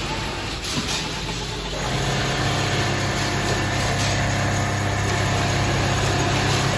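Automatic computerised sleeping-bag pattern sewing machine running: a steady mechanical hum that sets in about two seconds in and stops near the end.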